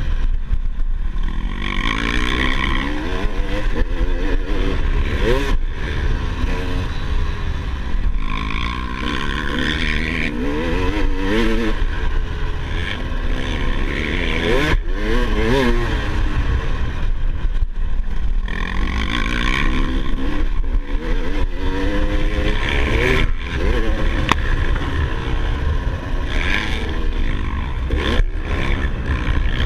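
Motocross bike engine revving up and falling back again and again, as with the throttle worked over rough ground, with a constant low rumble underneath.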